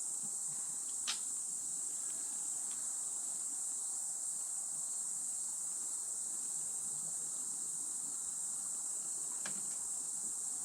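Steady high-pitched chorus of insects. Two faint clicks come through, about a second in and near the end.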